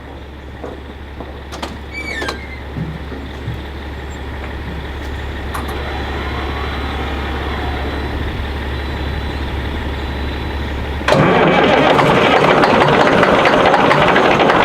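Semi truck's diesel engine cold-started at about 15 below zero. A low steady hum builds for about eleven seconds with a few clicks and a brief squeal. Then the engine catches abruptly and runs loud.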